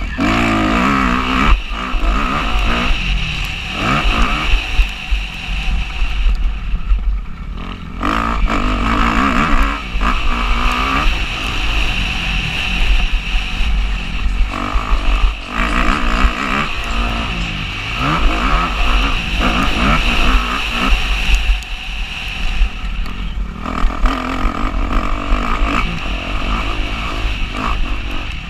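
Motocross bike engine revving up and down hard as it accelerates and shifts, with a heavy low rumble underneath. Twice the engine note drops off briefly as the throttle closes, then picks up again.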